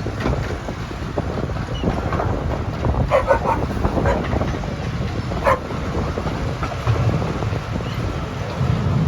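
15-inch-gauge Romney, Hythe & Dymchurch Railway train running: a steady low rumble from the wheels and carriage, with irregular clicks and knocks and wind on the microphone. Two brief higher-pitched sounds cut through about three and five and a half seconds in.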